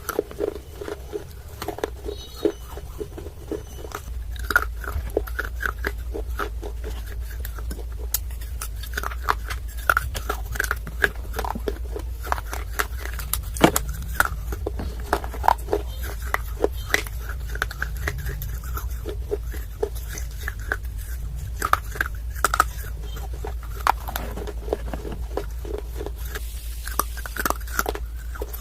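Close-miked biting and crunching of dry clay chunks, with sharp crunches and chewing repeated throughout. A steady low hum comes in about four seconds in.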